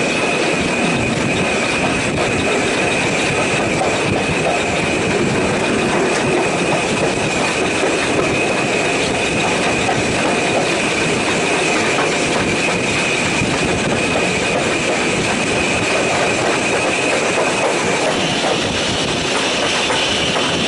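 Railway carriage running along the line, heard from on board: a steady rumble of wheels on the rails with a constant high-pitched wheel squeal over it. The squeal shifts slightly higher near the end.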